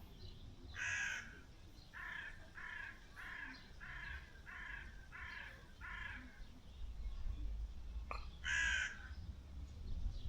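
A crow cawing: one call about a second in, then a run of six quick caws, and another single call near the end.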